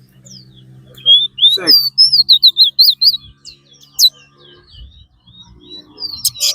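A caged 'fire red' seed finch singing a fast run of high, warbling chirps from about a second in for about two seconds, with another burst near the end; each song like this is counted as a point in the singing race.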